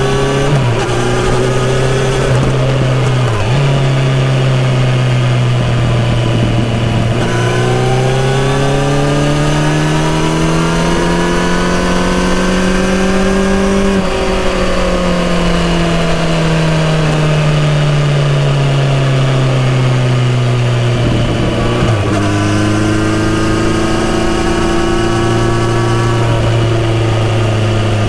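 Kawasaki Z900RS inline-four engine running through a full-system exhaust under way, holding steady revs with a quick gear change about three seconds in. The revs then climb slowly for several seconds and fall away gradually as the bike slows, with another shift a little before the end, after which the engine runs steady again.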